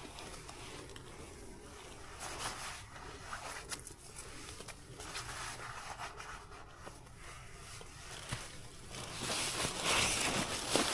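Rustling and scraping of fabric and gear close to the microphone, in irregular bursts that get much louder for the last couple of seconds.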